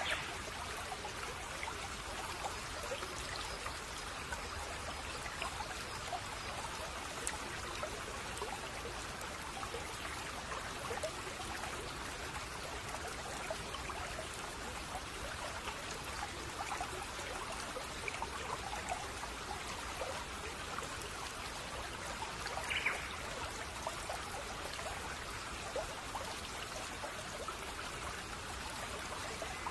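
A small brook babbling steadily, with one short bird chirp about 23 seconds in and a few faint chirps in the background.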